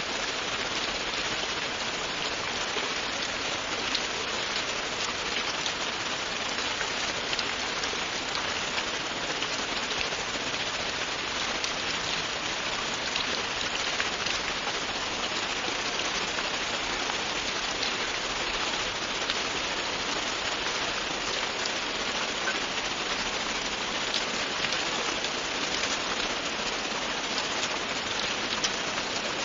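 Steady, continuous rain falling on a surface: an even hiss with scattered drop ticks and no thunder.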